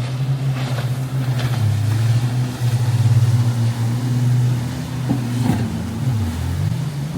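Motorboat engines running as a boat passes through the inlet. The low drone is steady, dips in pitch about six seconds in, then rises again.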